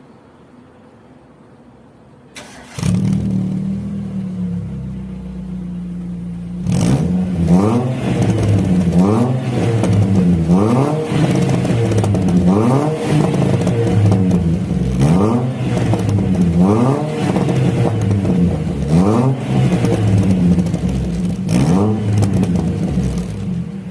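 Proton Satria Neo's four-cylinder engine starting through an aftermarket Matola exhaust, settling into a steady idle. From about seven seconds in, it is blipped repeatedly: about nine quick revs, each rising and falling back, roughly every two seconds. It drops back toward idle near the end.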